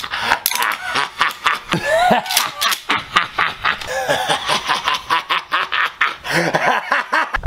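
A person laughing in a long run of rapid short bursts.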